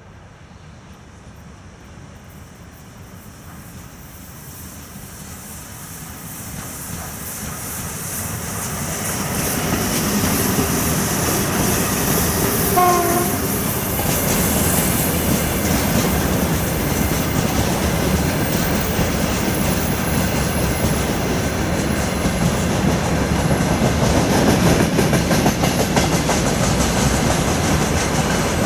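VL11M DC electric freight locomotive and its train of wagons approaching and passing, growing steadily louder over the first ten seconds, then a dense, steady rumble and clatter of wheels over rail joints as the wagons go by. A brief horn note sounds about halfway through, and faint high wheel squeal comes from the curve later on.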